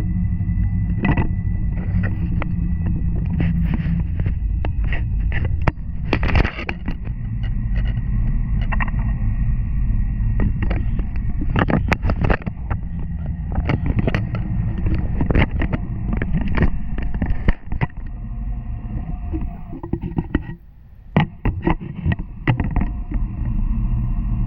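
N700 Series Shinkansen running at speed, heard from inside the passenger car: a steady low rumble with a faint steady whine, broken by many sharp, irregular clicks and knocks. About twenty seconds in the rumble drops away sharply for about a second, then comes back.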